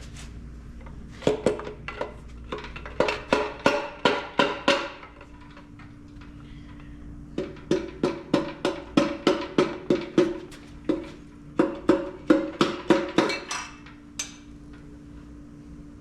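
Repeated hammer blows on metal engine parts, each strike ringing briefly at the same pitch. They come in four bursts of several strikes, about three a second, with short pauses between the bursts.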